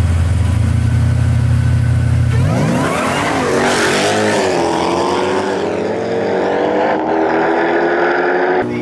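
Two street-race cars idling side by side with a steady low rumble. About two and a half seconds in they launch and accelerate hard, the engine notes rising and dropping back at each gear change as they pull away.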